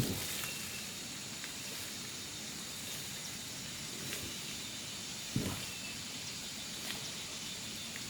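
A steady hiss, with a soft knock at the start and a heavier thump about five seconds in.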